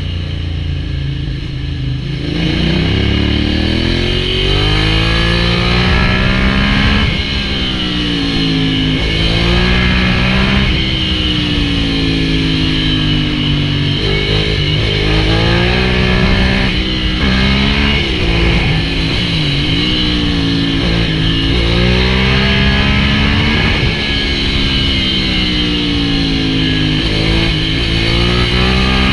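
Ducati Hypermotard 796's air-cooled L-twin engine through an SC-Project full exhaust, loud. The engine note holds low for about two seconds, then climbs and drops back again and again as the engine is revved up and eased off.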